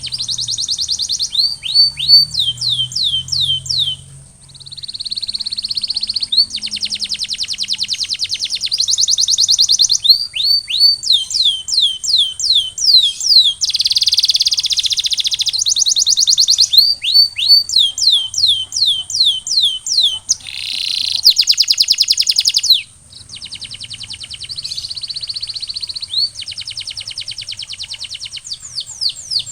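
Male canary singing: fast rolling trills alternating with runs of quick downward-sweeping whistled notes, in long phrases with brief pauses about four seconds in and near twenty-three seconds.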